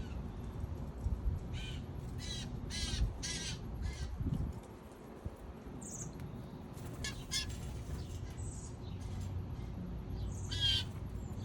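A bird giving harsh, raspy calls: a run of four about a second and a half in, two more midway, and one near the end, with a few brief high chirps between them. A steady low rumble runs underneath.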